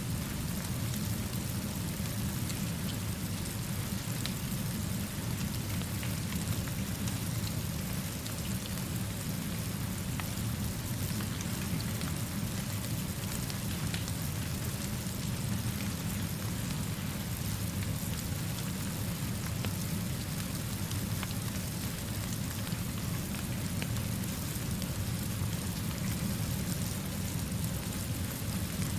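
Steady rainfall: an even, unbroken hiss of rain with faint scattered drop ticks and a steady low rumble underneath.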